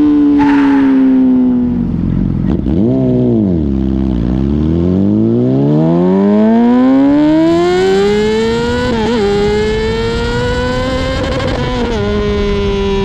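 Yamaha R6 inline-four motorcycle engine revving: the pitch dips and recovers about three seconds in, then climbs steadily for several seconds under hard acceleration and drops suddenly near the end as the revs fall.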